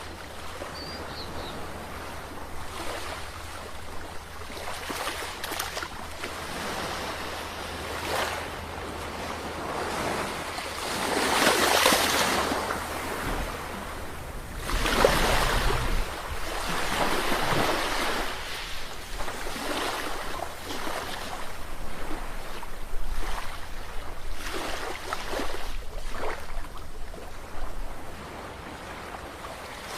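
Sea waves breaking and washing on the shore, a continuous rush that swells and ebbs, with the biggest surges about twelve and fifteen seconds in.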